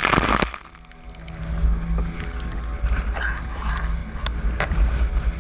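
Boat under way on open sea: a steady engine drone under heavy wind rumble on the microphone, with a rush of wave spray in the first half-second and a few sharp knocks near the end.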